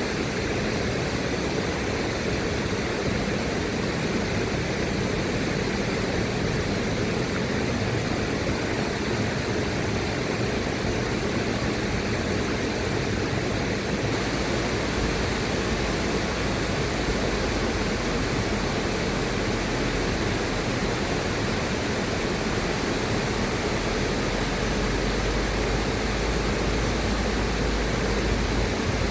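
River water rushing steadily, an even, unbroken noise. The hiss brightens slightly about halfway through.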